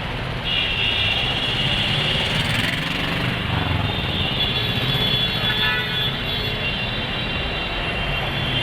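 Steady urban vehicle traffic noise, with a high whine that sets in about half a second in and holds.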